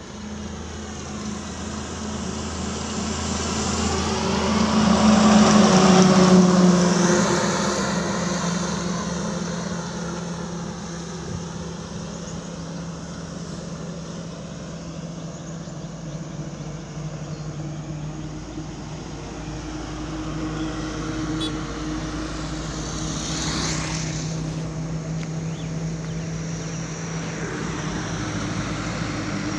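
Truck engines running on a road, with one truck passing close. It is loudest about five to six seconds in, then the sound eases off to a steady engine note.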